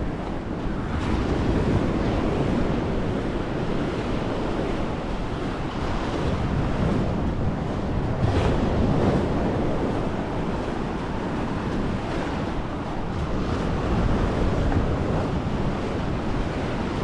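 Sea surf washing onto a beach, with wind buffeting the microphone: a steady rushing noise that swells and eases every few seconds.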